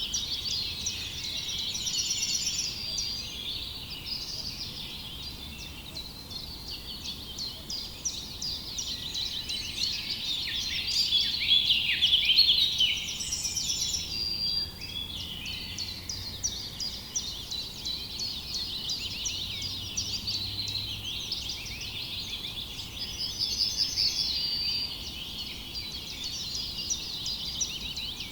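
A dense chorus of many songbirds chirping and trilling at once, with short high notes overlapping without a break and the busiest stretch about midway.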